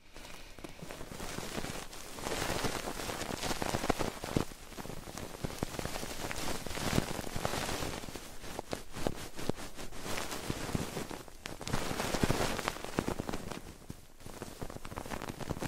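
Close-miked ASMR triggers: crackly rustling and rapid sharp clicks and taps right against the microphone, coming in waves that swell and ease, with a brief lull near the end.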